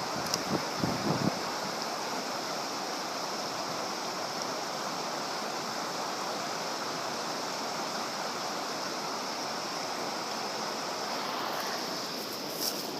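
A mountain stream rushing steadily, with a few short thumps in the first second or so.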